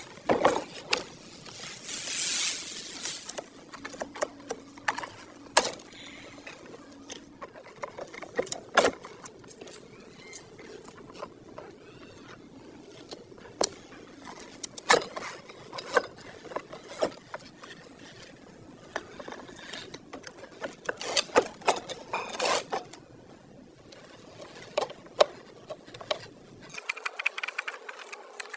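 Irregular clicks and knocks of tools and parts being handled during workshop hand work, with a short hiss about two seconds in.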